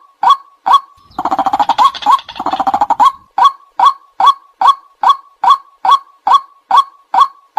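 White-breasted waterhen calling: a regular series of loud "kwak" notes, about two a second. About a second in, these give way to two quick runs of rapid, chattering notes lasting about two seconds, and then the regular notes resume.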